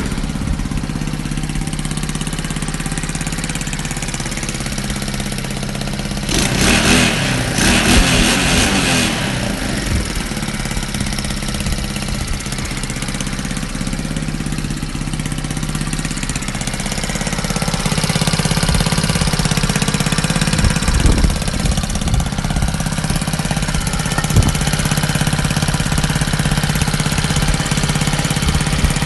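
Skyteam Dax mini-bike's swapped-in 110cc Lifan single-cylinder four-stroke engine running through the stock exhaust, mostly at a steady idle. It is revved twice about seven to nine seconds in, and from about seventeen seconds on it runs somewhat louder.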